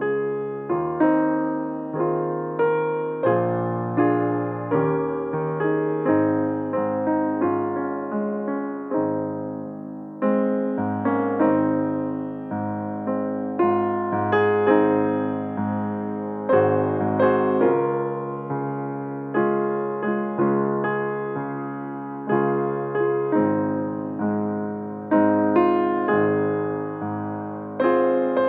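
Piano playing slow chords, a new chord struck about once a second and left to ring.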